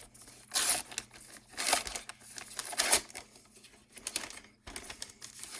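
Trading card pack wrapper crinkling and cards being handled, in several short rustling bursts.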